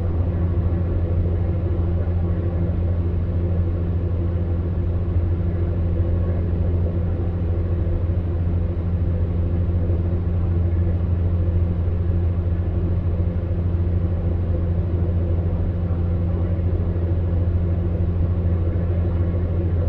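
Electric fan heater running steadily: an even low motor hum under a soft, even hiss of moving air, with no change.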